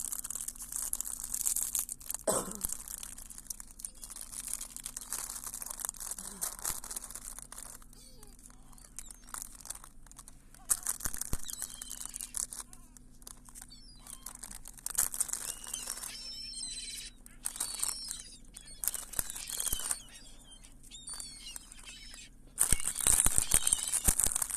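Gulls calling in short cries, one falling call about two seconds in, over patches of crinkling, rustling noise that come and go.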